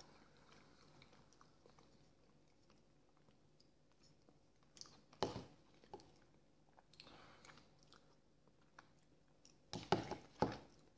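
Faint chewing and wet mouth smacks of someone eating boiled potato vareniki (dumplings), with a few short louder smacks about five seconds in and a cluster near the end.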